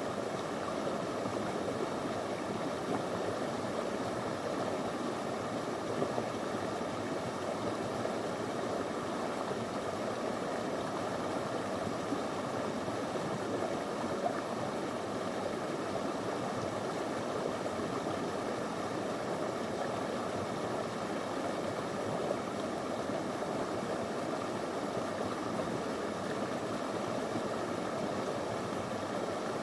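Shallow stream of clear water running steadily over stones, a constant rushing with small splashes.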